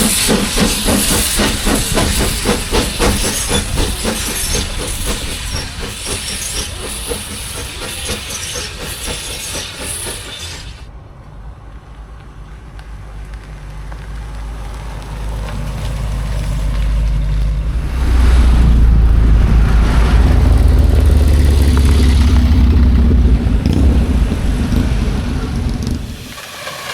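Steam hissing hard from a steam engine, with fast rapid pulses in it, cutting off suddenly after about ten seconds. A deep engine rumble then builds and runs loud until near the end.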